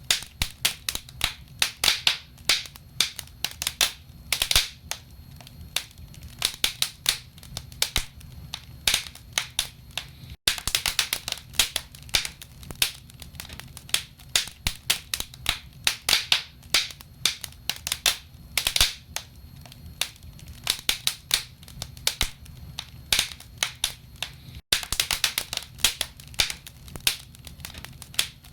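Wood fire in a fireplace crackling, with dense, irregular sharp pops and snaps of burning logs over a low steady rumble. The sound cuts out for an instant twice.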